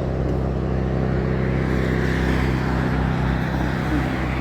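Strong wind buffeting the microphone of a camera riding on a moving bicycle: a steady low rumble with no break.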